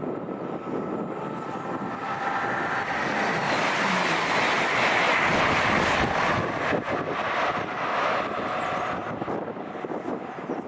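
High-speed passenger train passing a level crossing at speed. The rush of wheels and air swells for several seconds, peaks as the train goes by with a rapid run of wheel clatter, then eases off into wind buffeting on the microphone.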